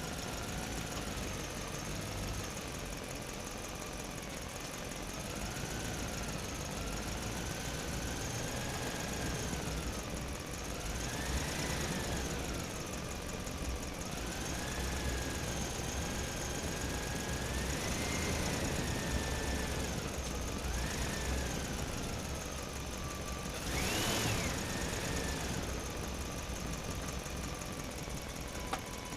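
A running motor with a steady low rumble and a whine that rises and falls in pitch several times, as if speeding up and slowing down. The highest, sharpest rise comes near the end.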